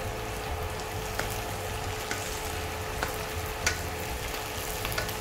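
Chicken pieces sizzling in a non-stick wok as a wooden spatula stirs and tosses them, with scattered light taps and scrapes of the spatula against the pan. A faint steady hum runs underneath.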